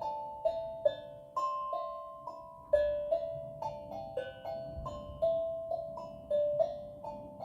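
Tongue drum played with mallets: a melody of single struck notes, about two a second, each ringing on clearly.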